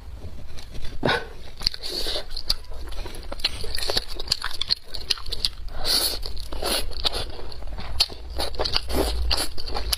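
A person eating up close to the microphone, biting and chewing food, with many irregular short clicks and crackles.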